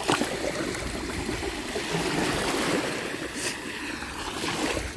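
Ocean surf washing up and running back over the beach, a steady wash that swells a little about halfway through.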